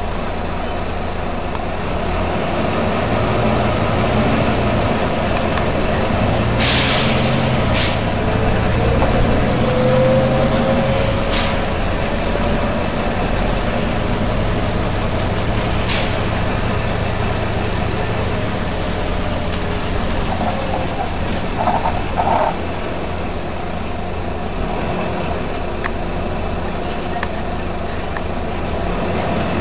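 Volvo B9TL bus's six-cylinder diesel engine running steadily, with a whine rising in pitch between about 8 and 11 seconds in. Short bursts of compressed-air hiss from the bus's air system cut in over it, the loudest about 7 seconds in and smaller ones a few seconds later.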